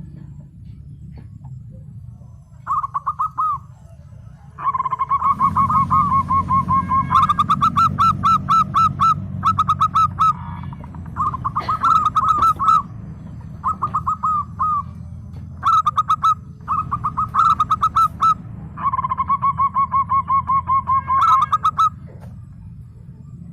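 Zebra dove (perkutut) singing: phrases of fast, staccato cooing notes, each a second or a few long, repeated with short pauses between them. A steady low hum runs underneath.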